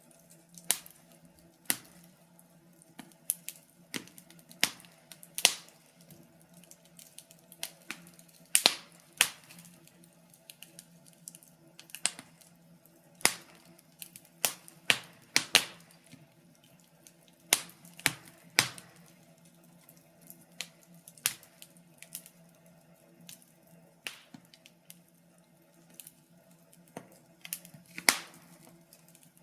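Wood fire crackling: irregular sharp pops and snaps, some louder than others, over a faint steady low background.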